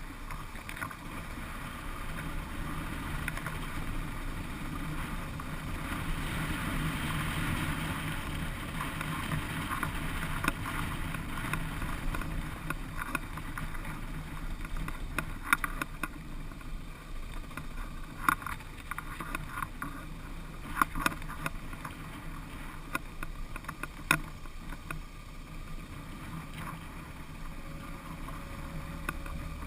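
Motorcycle engine running steadily on an unpaved mountain road, with wind buffeting the microphone. Through the middle there is a run of sharp clicks and knocks.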